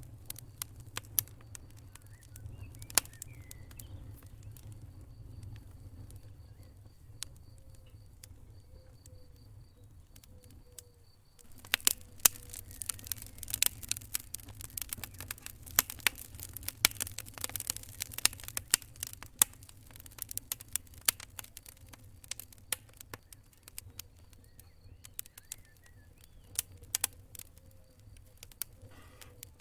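Wood fire crackling, with sharp pops and snaps scattered throughout over a steady low rumble. A denser flurry of crackling comes through the middle.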